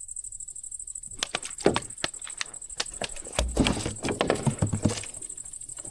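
Irregular clicks and light knocks, with a few duller thumps in the middle, from fishing tackle being handled while a line that is stuck on a snag is pulled.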